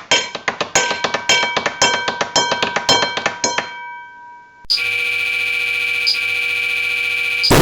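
Experimental noise music: a rapid run of struck, ringing metallic taps that thins and fades out, then a short lull before a steady electronic buzzing drone starts, marked by a click about every second and a half.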